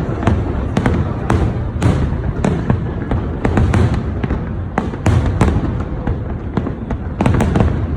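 Aerial fireworks bursting in quick, irregular succession: many sharp bangs over a continuous low rumble.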